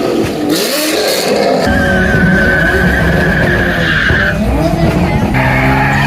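Car tyres squealing in a steady high screech for a couple of seconds over engine noise, as a car spins its wheels.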